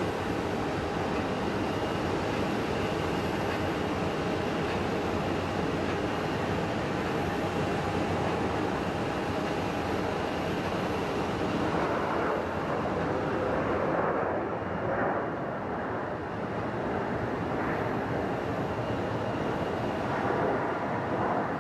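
Embraer ERJ-135 regional jet's turbofan engines, a steady jet noise with thin whining tones over it. About two-thirds of the way through, the high part fades and the sound dulls as the jet moves off.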